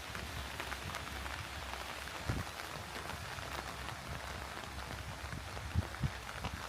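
Steady rain falling, heard as an even patter of many small drop ticks, with a few soft low thumps about two seconds in and again near the end.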